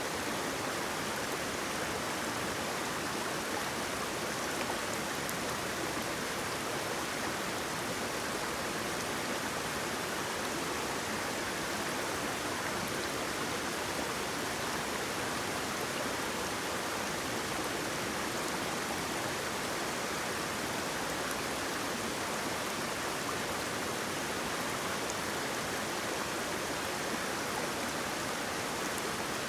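Waterfall: water pouring and splashing in a steady, unbroken rush with no change in level.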